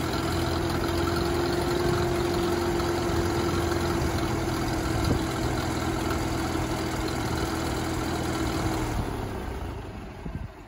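Propane-fuelled Case 830 Comfort King tractor engine idling steadily with a constant hum. The sound fades away about nine seconds in.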